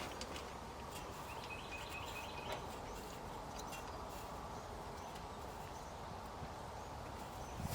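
Faint outdoor background with birds chirping and a few light clicks and taps as spark plugs are handled and started by hand into the engine.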